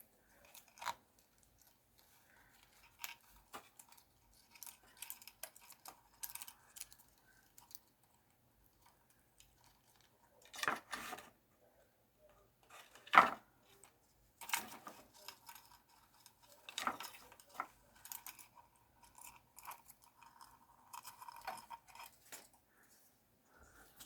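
A conure biting and chewing at a toy: scattered crisp crunches and clicks at an uneven pace, the loudest about halfway through.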